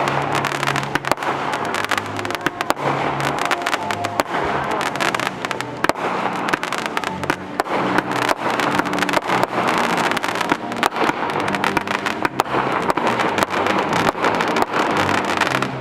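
Fireworks display: a dense, rapid run of bangs and crackles with no let-up, and music playing underneath.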